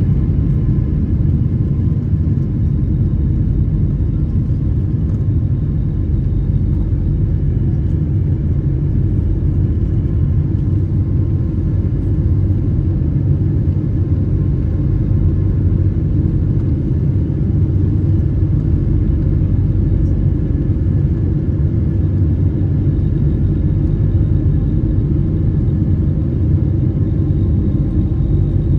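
Steady low rumble of a Boeing 777 heard from inside the passenger cabin, its jet engines running evenly with a few faint steady tones above the rumble.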